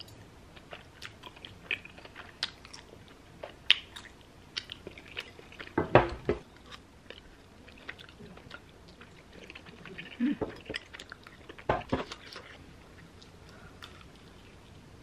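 Chewing and biting of cheesy tteokbokki rice cakes: soft wet mouth sounds and many small clicks, with a few louder knocks about six seconds in and twice more after ten seconds.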